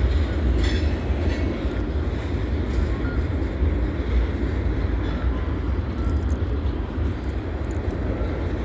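Freight train rolling past: a steady low rumble of rail cars on the track, with a few faint high clicks.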